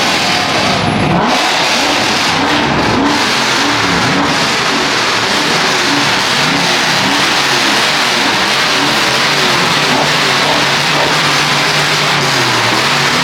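Loud car engines revving, the pitch swinging up and down again and again, then climbing more steadily near the end as one accelerates.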